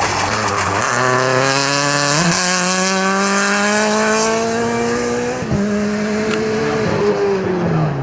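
World Rally Car's 1.6-litre turbocharged four-cylinder engine accelerating hard. Its pitch climbs through the gears, with upshifts about two and five and a half seconds in, and it lifts off briefly near the end before picking up again.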